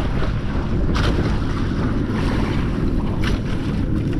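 Wind buffeting the microphone over water sloshing against a small fishing boat's hull, with two short splashes, about a second in and again past three seconds.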